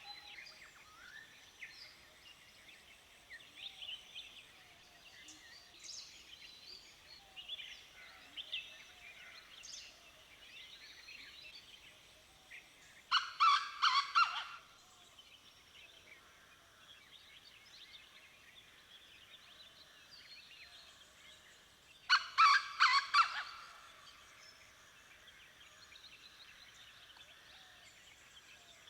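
Dawn chorus of many songbirds chirping and singing. Twice, once about midway and again about three-quarters through, a much louder, rapidly pulsed call from a larger bird rises above the chorus for about a second and a half.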